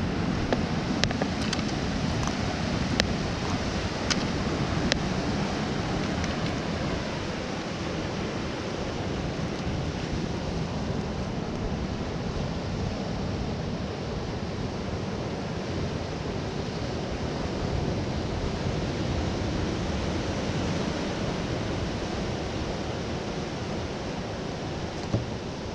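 Sea surf washing on the shore with wind buffeting the microphone, a steady rushing noise; a few sharp clicks in the first five seconds.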